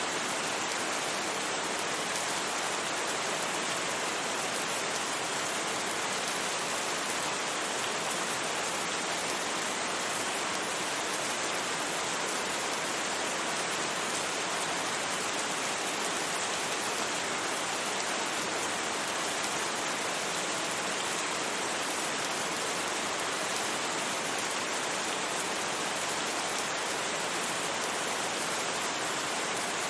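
Steady rain, an even hiss with no single drops, thunder or changes standing out.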